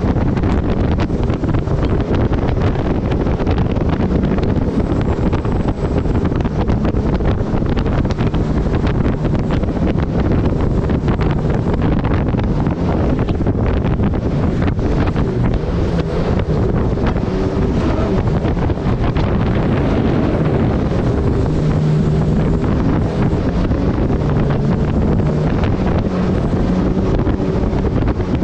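Mini jet boat's turbocharged Honda engine running under way, with water rushing and heavy wind buffeting the microphone. The level stays steady throughout.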